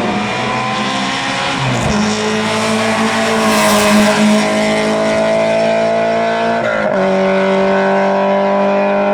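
Race car engine accelerating hard, its pitch climbing steadily and dropping at two upshifts, about two seconds in and about seven seconds in, with a brief rushing hiss midway.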